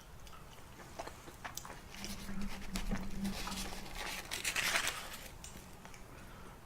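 Close-miked chewing of a large piece of chicken from chicken and rice soup: wet mouth clicks and smacking, busiest in the middle of the stretch, with a steady low hum under the first part of it.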